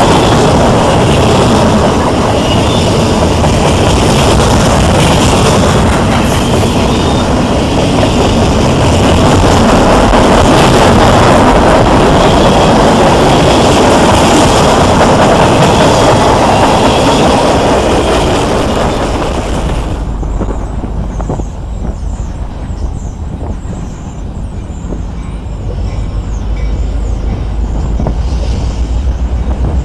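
Railroad cars of a train passing close by: a loud steady rumble and clatter of wheels on the track. About two-thirds through it changes abruptly to a much quieter low rumble, which grows louder toward the end.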